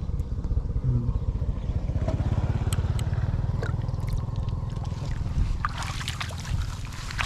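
A small engine running steadily, with a fast, even low pulse throughout. Water splashes briefly near the end.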